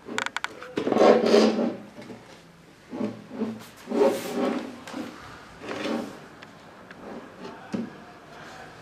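Cabinet door and panels being handled and fitted together: a run of quick clicks, then several separate scrapes and rubs of the parts against each other.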